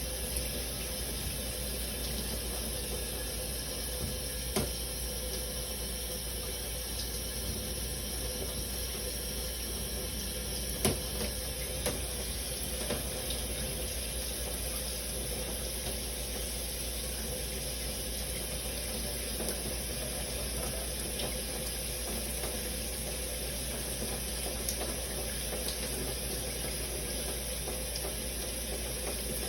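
Shower water running steadily, a continuous spray with a few faint ticks of drops striking.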